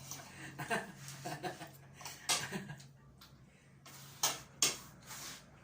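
Scattered clicks and knocks of dishes and utensils during a meal, with faint voices and a steady low hum that fades out about four seconds in.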